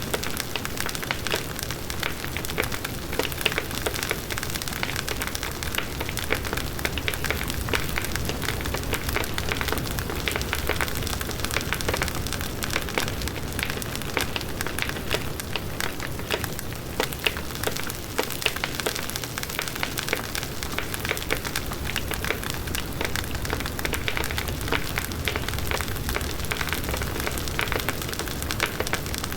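Large wood bonfire burning: dense, constant crackling and popping of the burning wood over the low rush of the flames.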